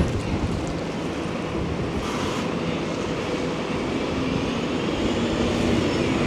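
Rainy town-street ambience: a steady wash of rain and traffic noise, with a vehicle passing and growing a little louder toward the end.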